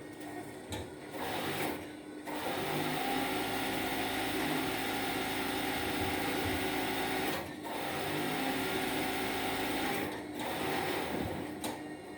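Steam iron fed from a steam boiler hissing as steam is let out in long bursts: one of about five seconds, a second of about two and a half seconds, then a short one near the end.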